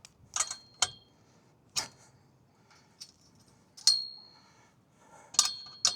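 Metal wrench clinking against the nuts and bracket of an antenna mast as the nuts are being loosened: several separate sharp metallic clinks with a short ring, the loudest about four seconds in.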